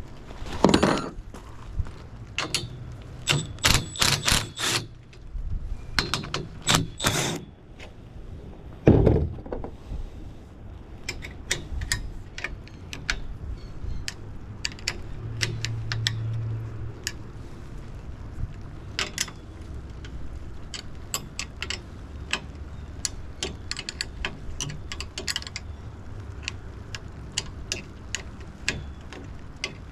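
Handling of metal antenna hardware and tools: a series of clinks and knocks, with several louder knocks in the first ten seconds and then a long run of small, quick clicks.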